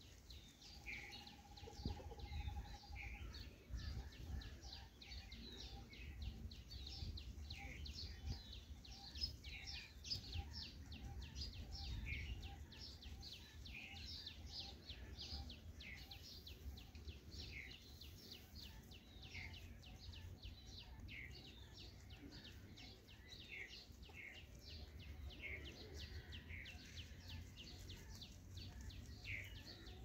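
Small birds chirping and twittering: rapid repeated chirps, with a short falling call every second or two. A thin note is held for the first few seconds, then pulses about twice a second, all over a faint low rumble.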